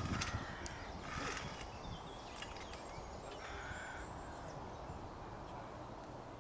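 A few bird calls, three short ones within the first four seconds, over a steady low background rumble.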